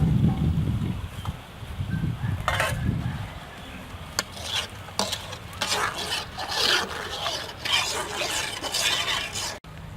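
Kitchen utensil work: irregular scraping and stirring strokes with a few sharp clicks, louder in the first few seconds.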